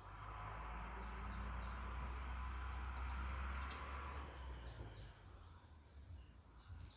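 Insects, crickets by the sound of it, chirping outdoors in short high trills repeated again and again, over a steady low rumble.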